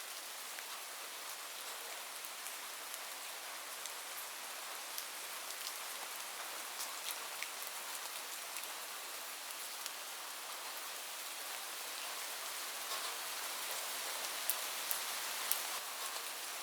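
Steady rain falling on a roof, a dense hiss with scattered sharp drop ticks, a few louder drips standing out near the end.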